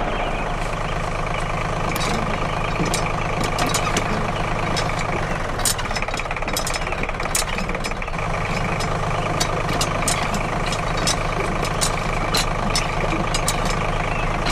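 A small engine running steadily at idle, with irregular sharp clicks and rattles over it; its low hum weakens for a few seconds around the middle.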